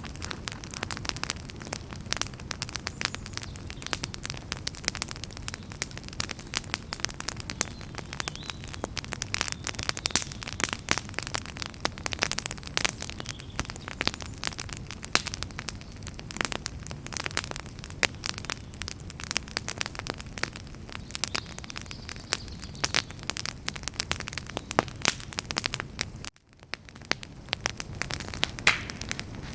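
Wood fire burning with dense, irregular crackling and popping over a low rumble of flame. Near the end the sound drops out for a moment, then fades back in.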